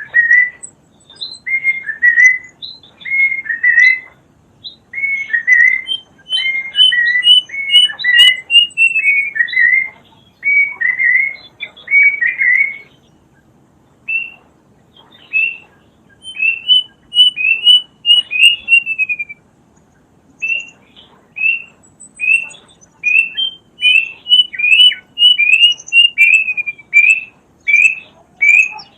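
Kedasih (plaintive cuckoo) singing: bursts of short, loud, whistled notes repeated about twice a second. Some phrases slur downward, and some runs of higher notes step down in pitch. A few short pauses break the song. Faint high chirps from other birds are heard in the background.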